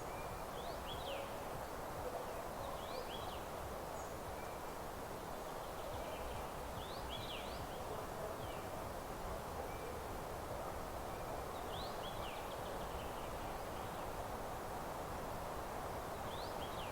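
Songbird in a meadow repeating a short phrase of quick, steep, falling whistled notes every few seconds, with faint single notes in between, over a steady background hiss.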